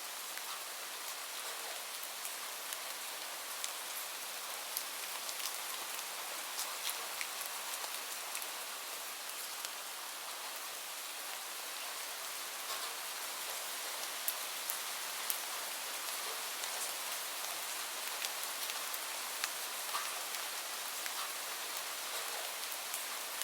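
Steady rain: a dense, even hiss of falling rain with many small sharp drop ticks scattered through it.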